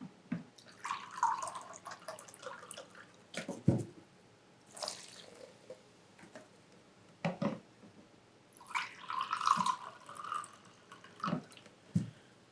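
Vinegar poured in two short splashing pours into small hollowed pumpkins holding baking soda, with liquid dripping, and several sharp knocks as the pumpkins or the cup are handled.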